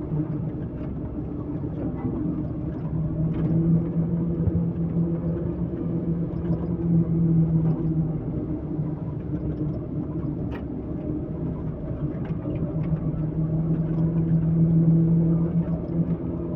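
Heavy diesel engine running with a steady low hum, its level swelling and easing a few times as the load changes.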